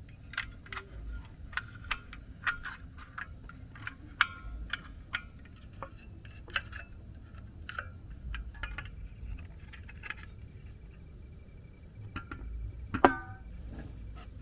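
A steady high-pitched insect drone, typical of a cricket or cicada, with many irregular sharp taps and clicks over it that thin out after about ten seconds. One louder knock with a brief ring comes near the end.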